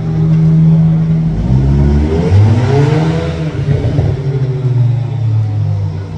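BMW M3 engine revving loudly, its note dropping and then climbing and falling a few times about two seconds in, before settling to a steady drone that fades a little near the end.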